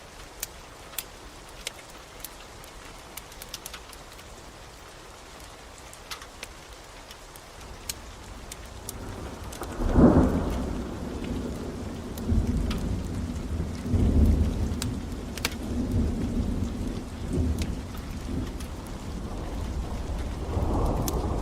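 Steady rain with sharp crackles from a wood fire, then a thunderclap about ten seconds in that rolls on as a low rumble for several seconds, swelling again near the end.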